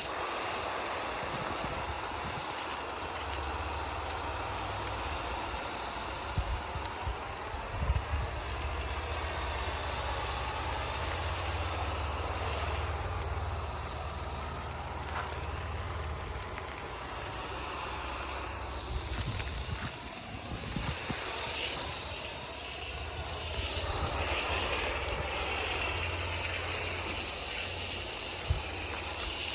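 Steady hissing noise over a low rumble, with a few brief knocks.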